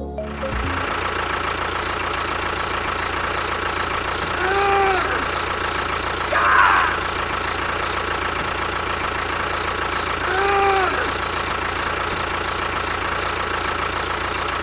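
A small motor running steadily with a constant whine. Two short rising-and-falling pitched sounds come partway through and near two-thirds of the way, with a brief louder burst between them.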